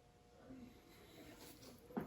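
Near silence: faint room tone with a steady low hum, and a single sharp click or tap right at the end.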